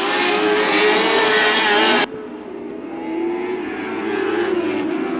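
Lightning sprint cars racing on a dirt oval, their engines running hard with the pitch rising and falling as they go around the track. About two seconds in, the sound abruptly turns quieter and duller as the engines carry on.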